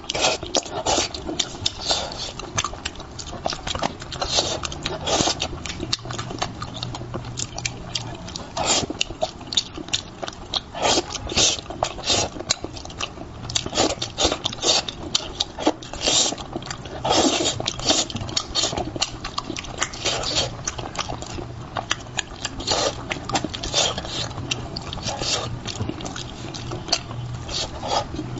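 Close-miked eating of spicy braised fish: wet chewing, lip smacks and slurps coming as a rapid, uneven run of clicks. A faint low hum sits underneath from about six seconds in.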